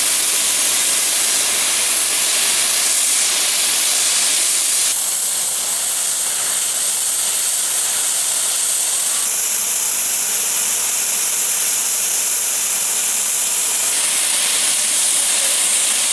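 Steady, loud hiss of steam escaping from the standing BR Standard Class 8 steam locomotive 71000 Duke of Gloucester, its tone shifting abruptly a few times.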